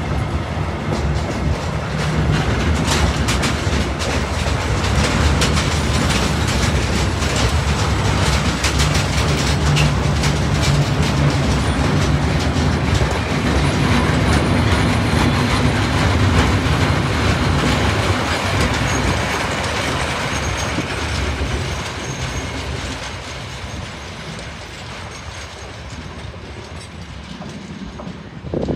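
A train passing through the station, with dense rhythmic clattering of wheels over the rails and a steady low hum. The sound eases off over the last several seconds, and a short sharp knock comes at the very end.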